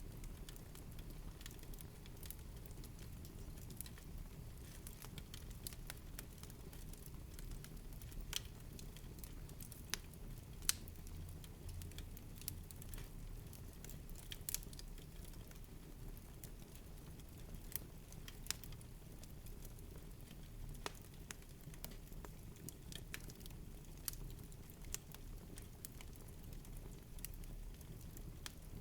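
Wood fire in a fireplace crackling, with scattered sharp pops over a low steady rumble of the flames.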